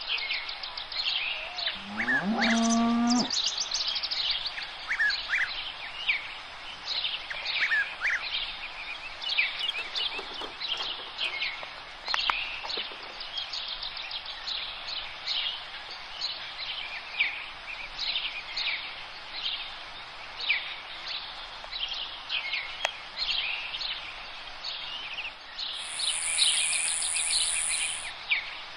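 Garden birds chirping and singing throughout. About two seconds in, one low drawn-out call rises in pitch and holds for about a second. Near the end there is a thin, high, steady tone for about two seconds.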